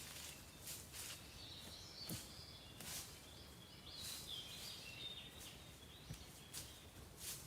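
Small birds singing faintly, short chirps and warbles, with several short scuffs and rustles mixed in.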